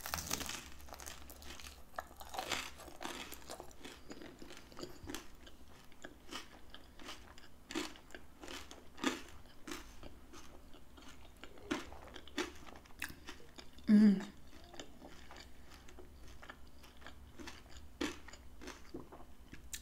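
A bite into a crisp pizza-dough taco empanada with a loud crunch, then close-up chewing with many small irregular crunches. There is a brief low vocal hum about two-thirds of the way through.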